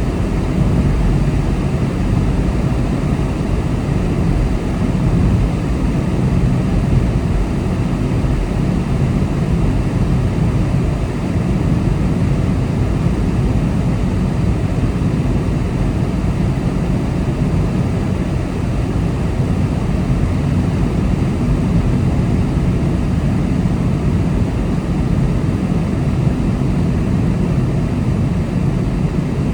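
Car driving at a steady speed: a continuous drone of engine and tyre noise on the road.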